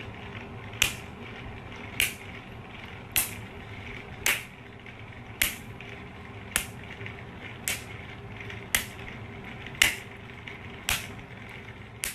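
A sharp click repeating evenly about once a second, over a steady low hum.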